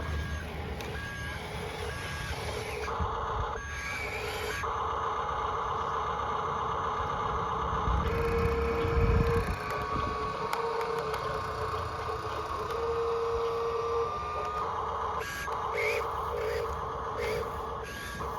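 Electronic sound effects from toy RC construction vehicles: repeated reversing beeps and pulsing warning tones, with the whine of their small electric motors, one rising for a few seconds mid-way. A low rumble is loudest about nine seconds in.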